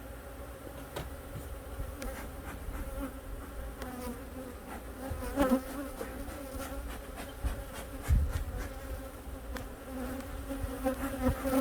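A honey bee colony buzzing steadily in an opened hive, a hum of many bees, with a few sharp knocks about five, eight and eleven seconds in.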